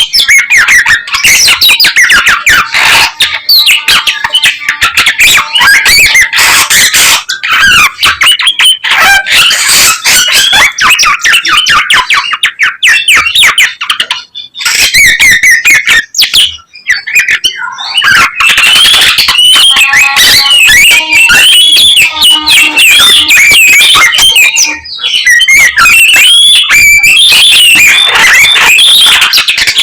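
Young garugiwa songbird in full song: a loud, nearly nonstop stream of rapid, varied chirps and warbles, broken by short pauses about halfway through and near the end.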